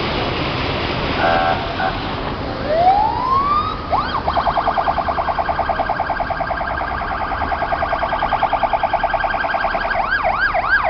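An emergency vehicle siren winds up in pitch, then warbles rapidly for several seconds and switches to a slower, deeper up-and-down yelp near the end, over a steady rush of rain and running water. A short beep sounds about a second in.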